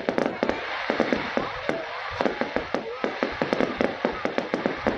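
Fireworks display going off: a rapid, irregular string of sharp bangs and crackles, several a second.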